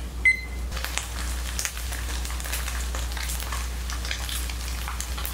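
Starch-and-egg-coated sea bass slices frying in a few spoonfuls of oil in a wok, with light, scattered crackling over a steady low hum. There is a brief click just after the start.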